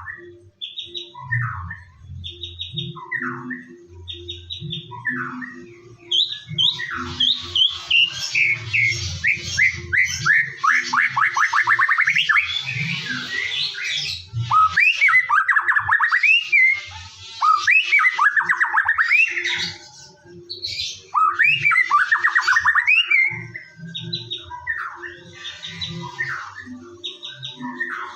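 White-rumped shama (murai batu) singing: short whistled phrases a second or so apart, then a long, busy run of rising and falling whistles and rapid trills from about a fifth of the way in, easing back to short phrases near the end.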